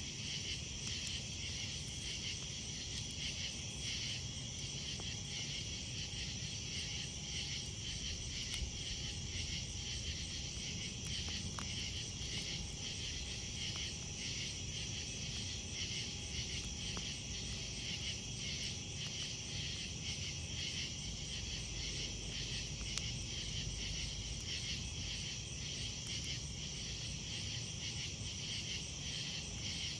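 A steady chorus of night insects trilling in close, rapid pulses, with a few faint crackles from a campfire.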